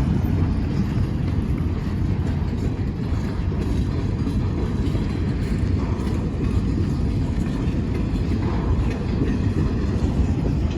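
Freight train rolling past, a steady low rumble of wheels and wagons.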